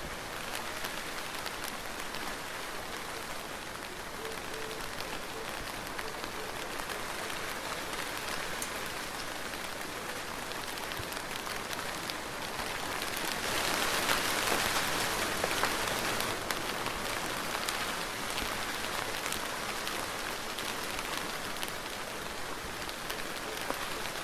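Steady soft rain falling, a dense hiss with scattered drops pattering on surfaces, swelling briefly a little past the middle.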